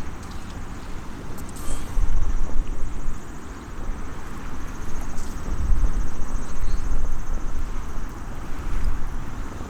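Wind gusting against the microphone, with a heavy low rumble that swells twice over a steady rushing background, and a couple of faint crackles from a small wood campfire.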